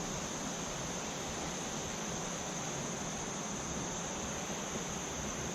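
Steady drone of insects, a constant high note, over an even rushing hiss.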